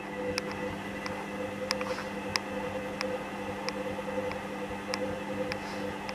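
Hoover Dynamic Green washing machine in its 30 °C main wash, the drum turning with a steady motor hum. Light clicks come about three every two seconds as the drum turns.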